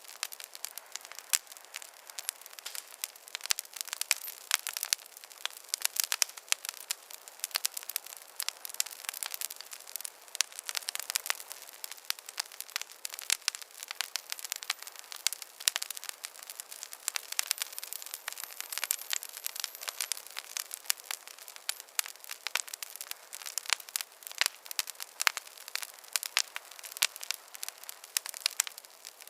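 Wood fire crackling in a fireplace: a dense run of irregular sharp pops and snaps over a faint hiss.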